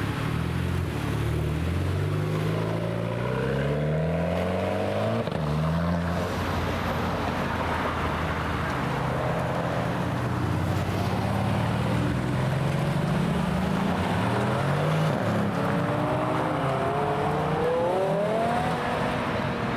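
Modified car engines revving and pulling away, each climbing in pitch and dropping back several times.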